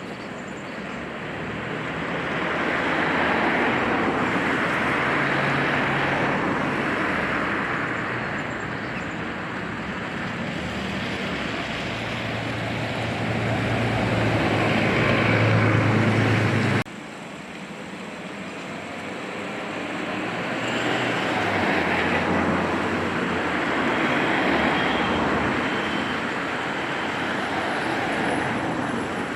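Steam-hauled train running past, a rush of noise that builds and fades. It cuts off abruptly about seventeen seconds in, and a second pass builds and fades again.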